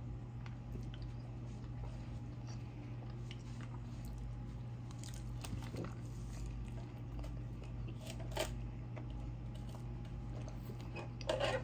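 Chewing and biting into chicken wings, wet mouth sounds with a few sharp crunches about five and eight seconds in, over a steady low room hum.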